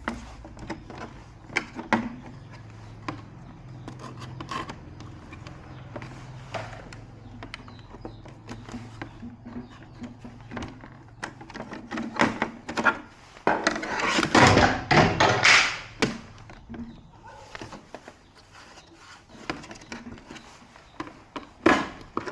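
Scattered clicks and knocks of objects being handled, over a low steady hum that dies away about twelve seconds in. About fourteen seconds in comes a louder stretch of rustling and scraping lasting about two seconds.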